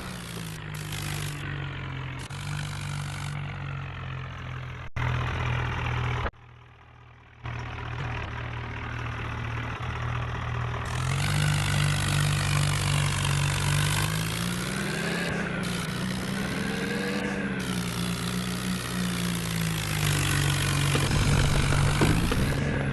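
Tractor diesel engine running steadily under load. Its pitch rises and falls a few times in the second half. The sound drops away briefly about six seconds in.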